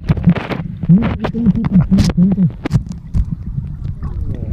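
Muffled talking in a low voice, with many short knocks and rubbing close to the microphone.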